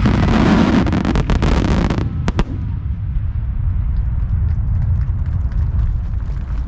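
Fireworks finale: shells bursting in a dense crackle with sharp bangs for about two seconds. The crackle then thins out abruptly, leaving a steady low rumble with a few scattered pops.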